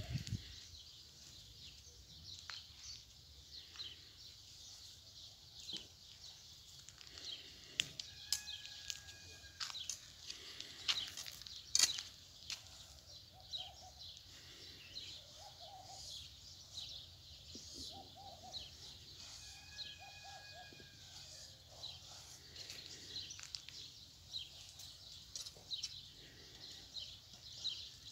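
Small birds chirping steadily in the background, with a few sharp clicks near the middle.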